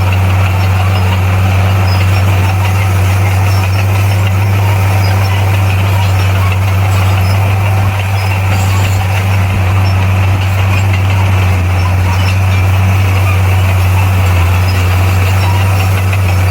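Heavy earthmoving machine's engine running steadily, a deep even drone with no change in pitch.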